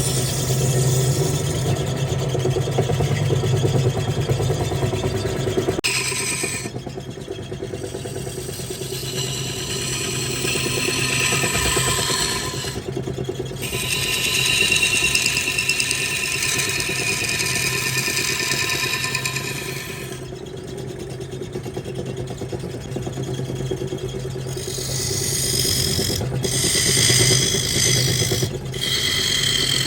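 Wood lathe running with a steady motor hum while a turning tool cuts the spinning wood, its hiss rising and falling. The sound shifts abruptly several times.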